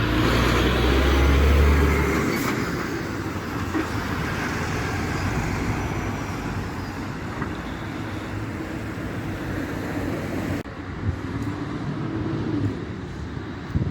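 Trucks driving past on a road, engine drone and tyre noise. The drone is loudest in the first two seconds as one passes close and then fades. About ten seconds in, the sound changes abruptly to another passing vehicle.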